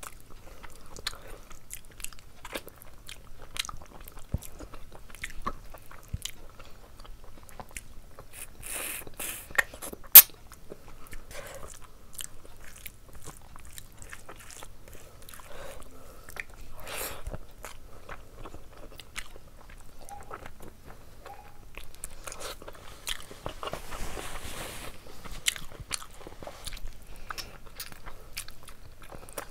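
Close-miked eating sounds: chewing, biting and wet mouth smacks as a person eats curried meat and rice with her fingers. There is one sharp, loud click about ten seconds in.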